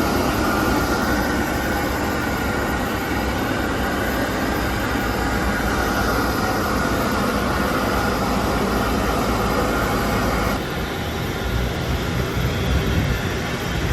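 Steady aircraft ground noise: a rumbling hiss under a high, steady whine. The whine cuts off abruptly about ten and a half seconds in, leaving a slightly quieter rumble.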